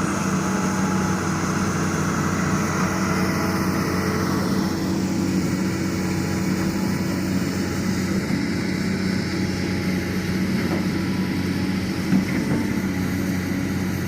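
Heavy diesel engine of an earthmoving machine (excavator or bulldozer) running steadily at a constant speed, with a single short knock about twelve seconds in.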